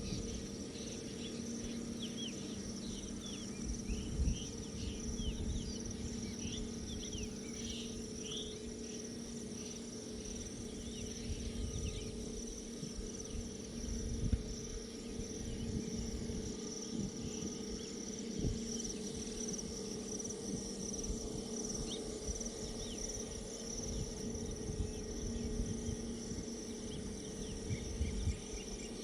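Steady high insect buzz, like crickets, over a low rumble with a few low thumps; short chirps come and go in the first third.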